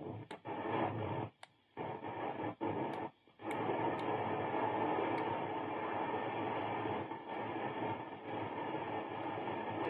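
Steady hiss and buzz of noise from a guitar effects pedal, cutting out briefly twice in the first few seconds, with a few sharp clicks. This is an intermittent fault in the pedal, bad enough that it is being sent back.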